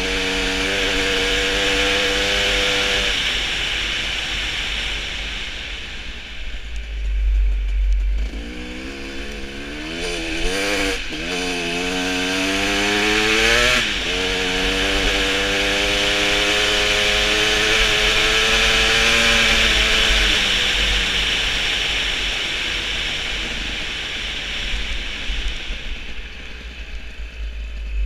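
Motorcycle engine running hard at speed, with a buzzing, chainsaw-like tone. Its pitch holds, then drops off about a quarter of the way in, revs up and down several times around the middle, and settles into a steady run again before easing off near the end.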